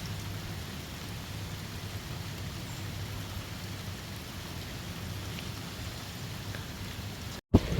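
Steady noise of a windstorm with rain, a low rumble under an even hiss. Near the end it cuts out for a moment, then a sudden loud thump.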